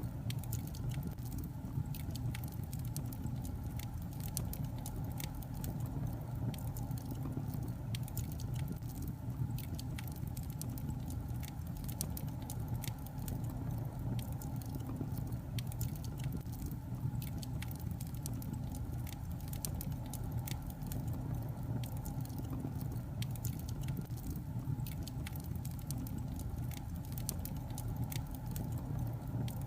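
Wood fire of burning logs crackling, with frequent small irregular pops and snaps over a steady low rumble of the flames.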